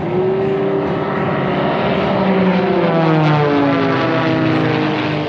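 Propeller-driven aerobatic aircraft of a three-ship formation flying low past the crowd, several engine notes heard together and sliding down in pitch as the planes go by.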